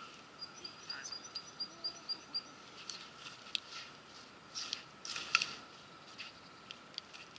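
A small bird calling in a quick run of short high notes, about five a second, for about two seconds. After it come scattered faint sharp clicks.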